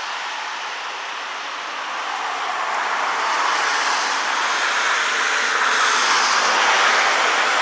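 Car tyres hissing on a wet, slushy street, a steady noise that dips about a second in and then swells louder through the second half as the vehicle draws nearer.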